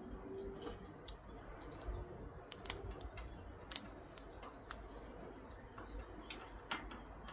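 A run of irregular light clicks and taps, a dozen or more, uneven in spacing and strength, over a faint low hum.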